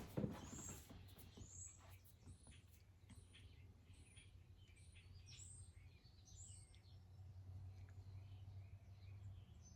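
Faint bird chirping: a string of short high chirps, about two a second, over a low steady hum.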